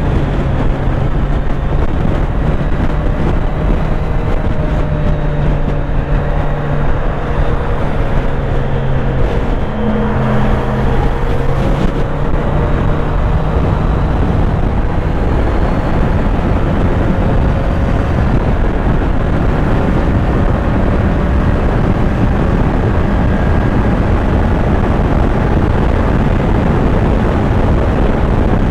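Kawasaki Z900 inline-four motorcycle engine running on the move at a fairly steady pitch, under heavy, constant wind rush.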